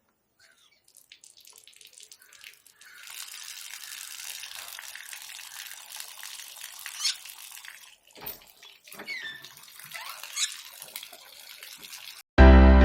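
Running water, a steady hiss lasting several seconds, followed by scattered clicks and a few short rising squeaks. Loud music cuts in just before the end.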